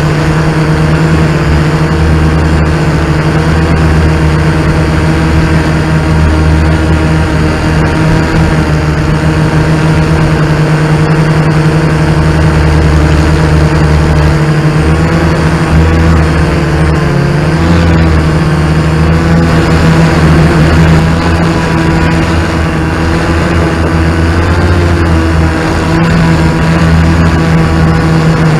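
Quadcopter drone's motors and propellers running in flight: a steady, loud buzzing hum whose pitch shifts slightly now and then as the motors change speed.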